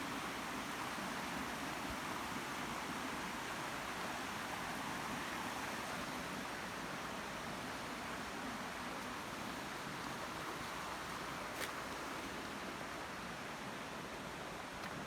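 Steady rushing of falling and flowing water, an even hiss and rumble, with one short click a little past the middle.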